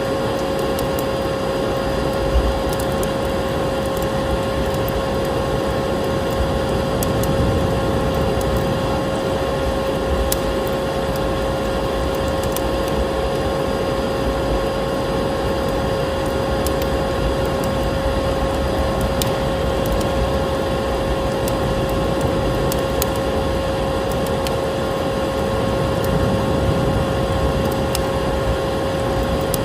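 Vacuum cleaner running steadily with a constant whine, layered with the scattered crackles and pops of a wood fire burning in a fireplace.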